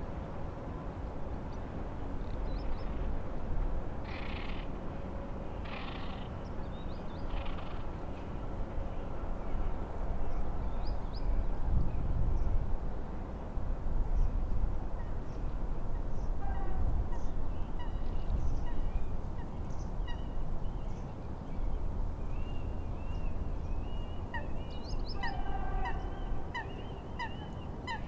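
Birds calling over a steady low rumble of wind and lapping water. A few scattered calls come early on, then from about halfway a run of short, rapidly repeated calls builds and grows busier toward the end.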